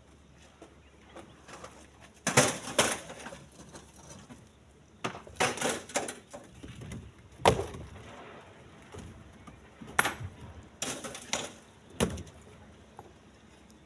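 Split stones being thrown into a truck bed, landing with irregular knocks and clatters every second or two, some with a short ringing tail.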